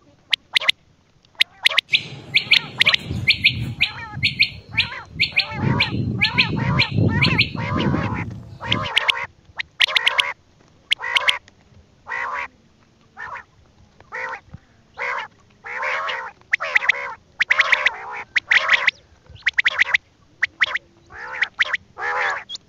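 A bird giving short, harsh calls over and over, about one a second. From about two seconds in to about nine seconds in, a lower rumbling noise and a faster, higher chirping run alongside the calls.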